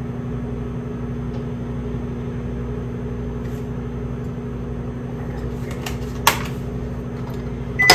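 Microwave oven running with a steady hum and a single click about six seconds in; the hum stops at the very end and a high beep sounds as the cycle finishes.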